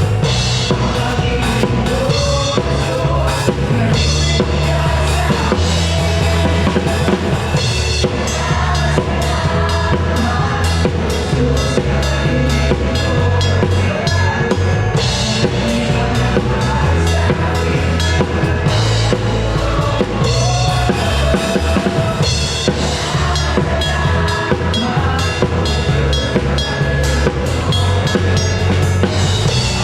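Live band playing a song, with the drum kit loud and prominent: a steady bass drum and snare beat over bass and other instruments.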